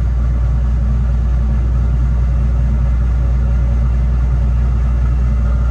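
Combine harvester's diesel engine running steadily at a constant speed, a loud low drone.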